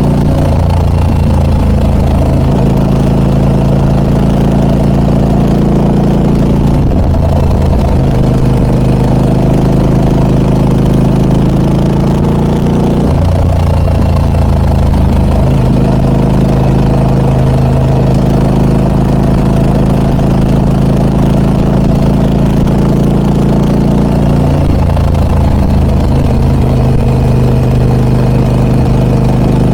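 Harley-Davidson Pan America 1250 Special's Revolution Max V-twin running loud through a Scorpion aftermarket exhaust. The engine note shifts pitch several times as the revs change.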